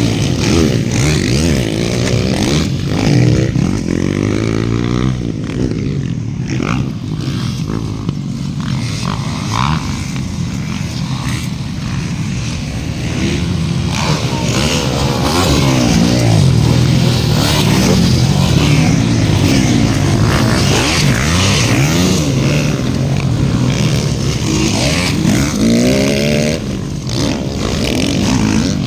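Several motocross bikes racing round the track together, their engines revving up and down over and over as they accelerate and shift, several engine notes overlapping.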